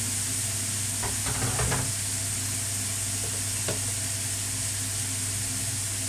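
Rice, shrimp and diced vegetables sizzling in a hot wok, a steady frying hiss, with a few light clicks of the spatula against the pan about a second in and once more near the middle.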